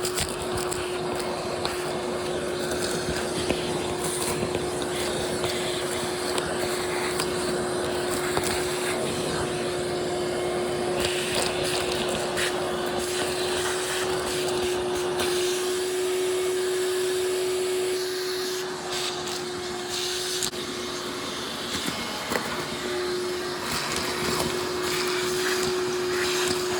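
A high-speed cutoff tool with a steady whine, its wheel hissing as it slices the sheet-metal floor of a 1958 Plymouth so the metal can be folded back for clearance. The whine drops out briefly about three quarters of the way through, then starts again.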